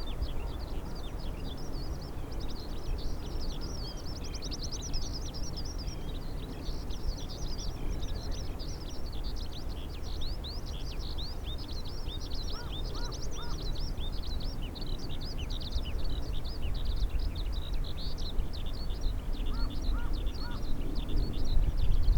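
Many small birds chirping and twittering rapidly and continuously, with a short three-note call heard twice. A steady low rumble underneath grows louder near the end.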